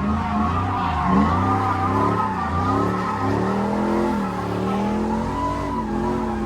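A drift car's engine revving hard, its pitch rising and falling over and over as the throttle is worked, with tyres squealing and skidding through a drift.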